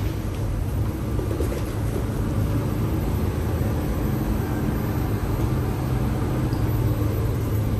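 Steady low rumble and hum inside an MTR East Rail Line R-Train carriage, with no sudden events.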